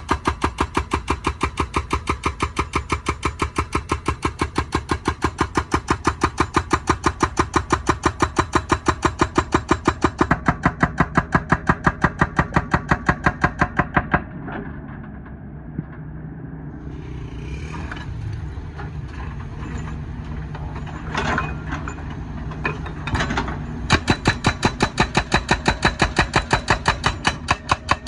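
Hydraulic breaker on a wheeled excavator hammering asphalt in a rapid, even rattle of blows. About halfway through the blows stop, leaving the excavator's engine running with a few metallic clanks. Near the end the hammering starts again.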